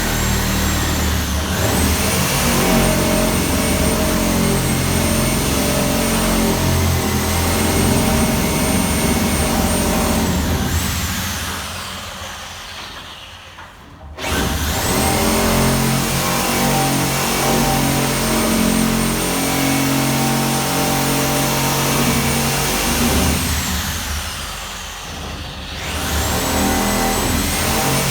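A power tool's electric motor running at full speed with a high whine, winding down twice and starting up again, once abruptly and once with a rising whine.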